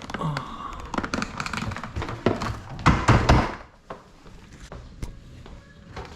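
A run of knocks, taps and thuds of things being handled and set down, busiest in the first three and a half seconds with the loudest knocks about three seconds in, then only a few scattered clicks.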